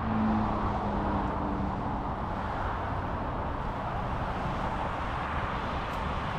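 Steady road-traffic noise, with a vehicle's engine hum fading away over the first two seconds.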